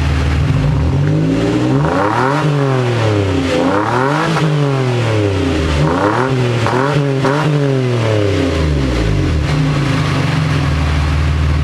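Mazda 6 engine heard through its aftermarket exhaust, revved while parked: it idles, is run up and dropped back several times, including three quick blips in a row, then settles back to idle near the end.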